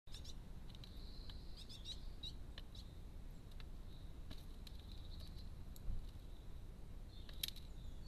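Faint, high chirps of birds, bunched in the first three seconds and again near the end, over a steady low background rumble. Scattered sharp ticks, and one low thump about six seconds in.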